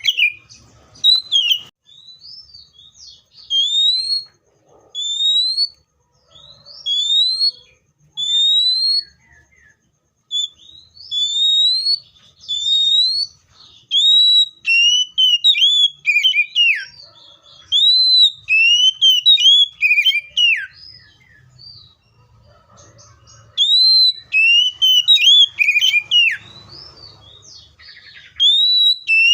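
Magpie-robin singing loud, clear whistled phrases of short rising slurred notes. Gaps between phrases at first, running into a denser, more varied song from about halfway.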